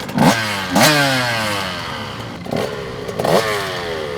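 Two-stroke dirt bike engine revved in four sharp throttle blips, in two pairs, with the revs falling away slowly after each.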